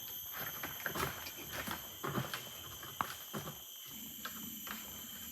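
Irregular knocks, thumps and rustling from an adult male orangutan's tantrum, with sharp strikes about a second in and three seconds in, over a steady high-pitched drone.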